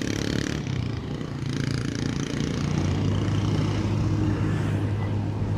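Motorcycle engine running at cruising speed, with wind rushing over the camera microphone. The engine's low drone gets steadier and louder about halfway through.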